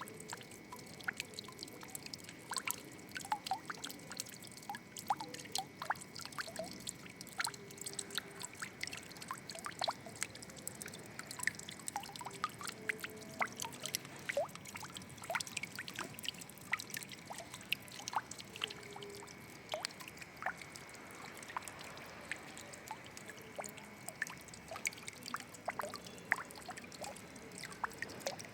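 Water trickling and dripping, with many small drops plinking at irregular moments over a steady splashing hiss.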